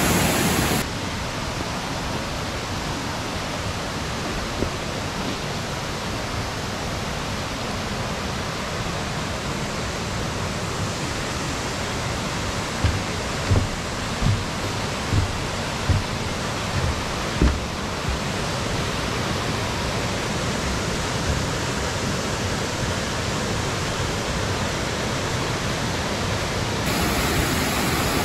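Steady rush of Raymondskill Falls' falling water. About halfway through comes a run of about seven soft low thumps, well under a second apart.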